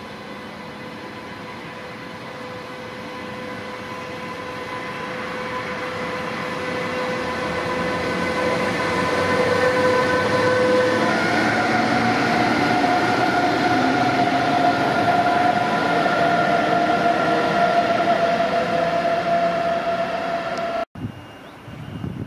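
Deutsche Bahn Intercity train running past along the platform, its rolling noise growing louder over the first half, with steady whining tones that step up in pitch about halfway through. The sound cuts off abruptly near the end.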